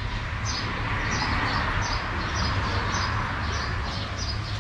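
A small bird chirping over and over, short high chirps about three a second, over a steady low rumble.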